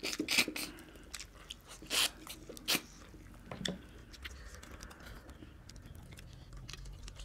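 Close-up eating sounds of mutton curry and rice: chewing, mouth smacks and biting, with a few sharp louder clicks about two seconds and nearly three seconds in.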